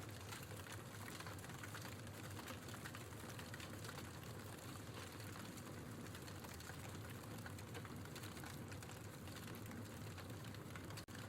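Logs burning in a fireplace: dense, steady crackling over a soft hiss, which cuts out for a split second near the end.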